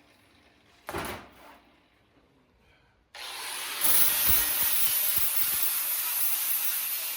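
A power tool starts up about three seconds in and runs steadily with a harsh hiss, after a brief scrape about a second in.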